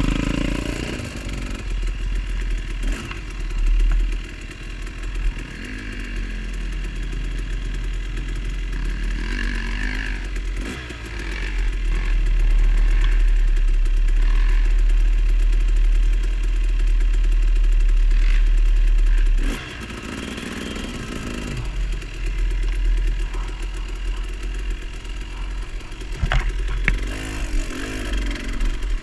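Off-road motorcycle engine revving up and down under load. It runs louder for several seconds in the middle, then drops off suddenly about two-thirds of the way through.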